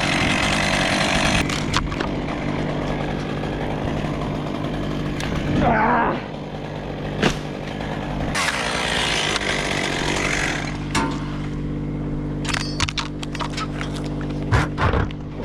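Chainsaw cutting in two loud spells, at the start and again about two-thirds through, over the steady running of an engine, with scattered clicks and knocks near the end.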